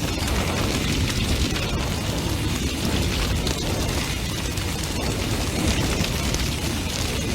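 Large fire burning fiercely: a steady low roar of flames with dense, irregular crackling and popping of burning wood.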